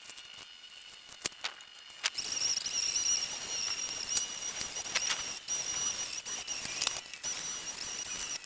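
Insects trilling steadily and high-pitched outdoors, fading in about two seconds in, with a few sharp knocks now and then.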